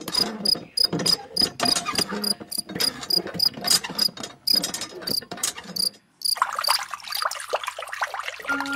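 A miniature hand pump being worked by hand, its handle giving a quick, irregular series of sharp high clicks for about six seconds. Then water trickles from a bamboo pipe into a small pool.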